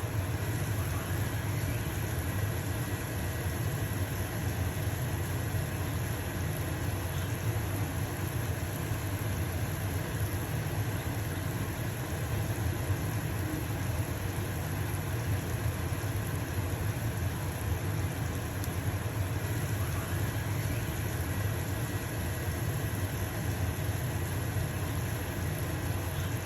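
Stove-top range hood fan running with a steady low hum, together with the steady sizzle of a pancake frying in a pan.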